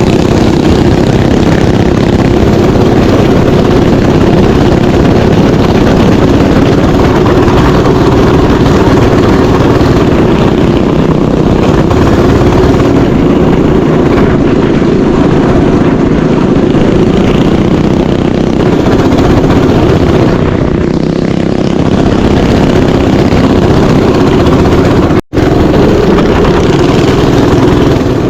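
Mini bike engine running steadily, loud and close, as the bike is ridden along a trail. The sound cuts out for an instant about 25 seconds in.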